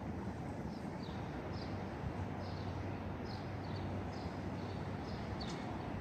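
Small birds chirping, short high notes repeated about twice a second, over a steady low city hum.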